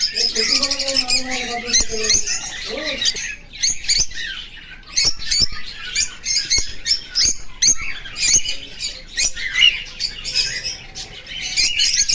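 Cockatiel chattering in a rapid run of short chirps and squawks, with click-like notes mixed in.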